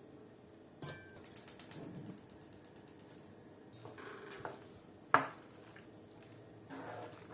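A fast run of ratcheting mechanical clicks lasting about two seconds, then a single sharp knock a little after five seconds in.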